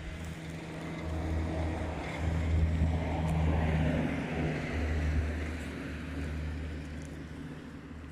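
A motor vehicle's engine running steadily, growing louder to a peak a few seconds in and then fading, as a vehicle passing by.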